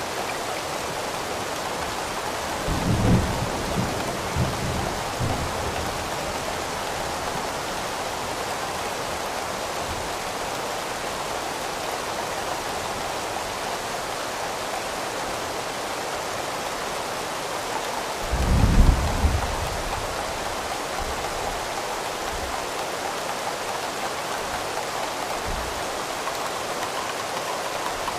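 Steady rain falling, with two low rolls of thunder, one about three seconds in and a louder one about eighteen seconds in.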